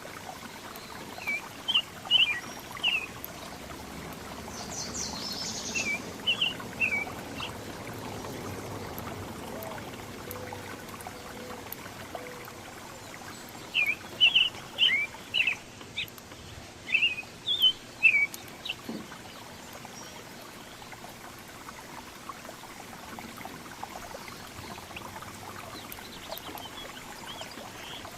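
Songbirds giving short chirping calls in clusters: a few near the start, a couple about six seconds in, and a longer run of quick chirps between about fourteen and eighteen seconds, over a steady low hiss.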